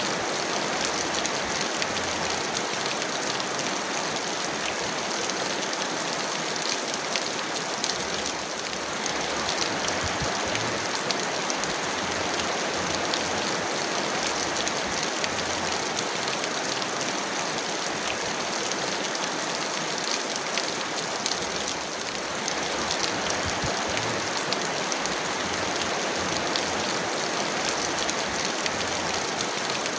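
Heavy rain falling steadily, an even hiss of pouring water that eases very slightly for a moment twice.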